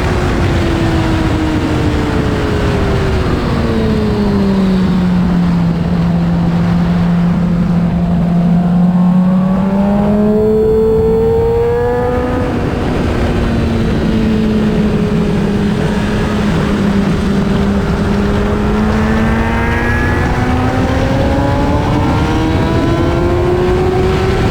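2008 Honda CBR600RR's inline-four engine at track speed: the engine note falls for several seconds as the bike slows, holds low, picks up with a brief dip a little before halfway, then climbs steadily through the rest. A steady rush of wind noise runs underneath.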